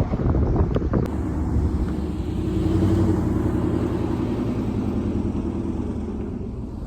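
Two-door Chevrolet Tahoe being driven, its engine running with a steady low note that swells about three seconds in and then eases off. A few short knocks sound in the first second.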